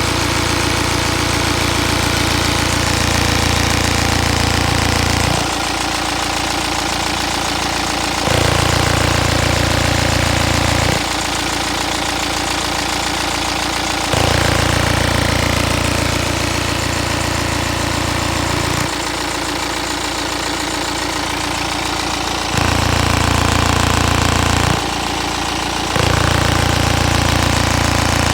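Mini Clubman F54 engine running at idle, with an abnormal low drone from the air intake that cuts in and out every few seconds, each time for a few seconds.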